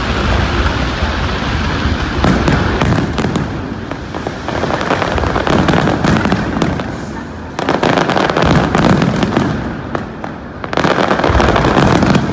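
Aerial fireworks bursting and crackling in a dense, continuous barrage, swelling louder several times.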